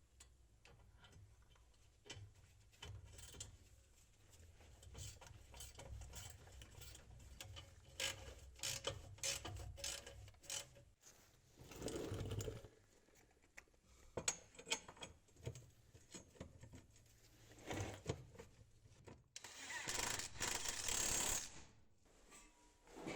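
Hand tools and metal exhaust parts clicking and knocking as the exhaust and its rubber hangers are fitted under a car, with scattered sharp clicks throughout and a noisy hiss-like burst of about two seconds near the end.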